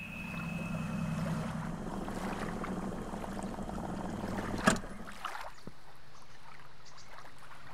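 Small boat's outboard motor running steadily under way, then dropping off just before five seconds in at a single sharp knock; the wash of water along the hull carries on after.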